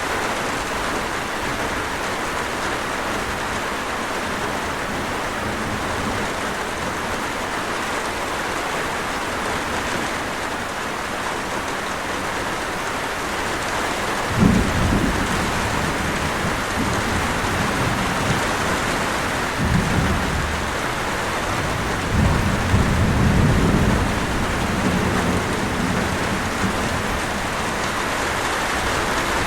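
Steady rain falling, with rolling thunder: a first rumble comes about halfway through, and further rumbles follow over the next ten seconds.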